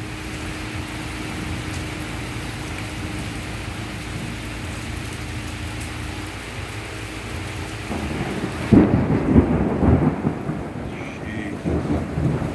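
Heavy rain falling steadily; about nine seconds in, a loud peal of thunder breaks out and goes on rumbling to the end.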